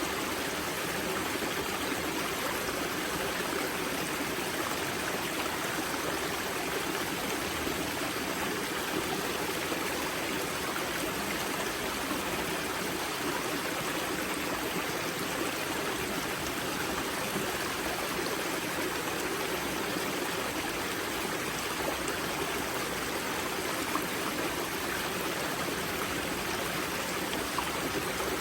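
Water of the river Grza's spring wellhead rushing and splashing over rocks, a steady, even rush with no change.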